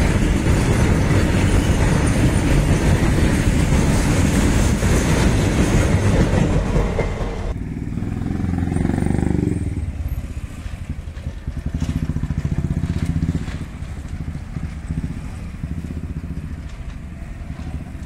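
A goods train of open freight wagons rumbles and clatters past on the rails for about seven seconds, then cuts off abruptly. After that come motorcycle and other small vehicle engines running as road traffic moves across the tracks.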